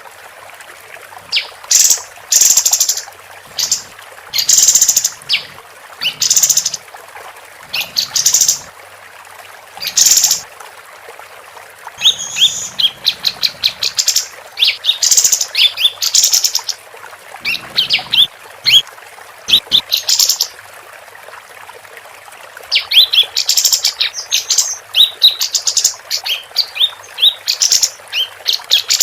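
Female kapas tembak (a bulbul) singing in repeated loud bursts: short separate chirped phrases at first, then from about twelve seconds in and again near the end fast rattling series of high chirps and trills. A steady soft hiss, like running water, sits underneath.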